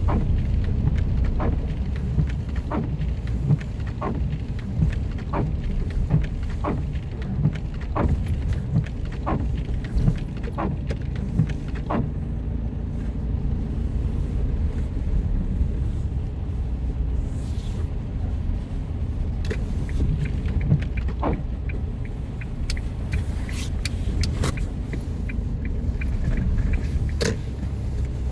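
Car driving on a wet road: a steady low rumble of engine and road noise, with scattered short sharp ticks.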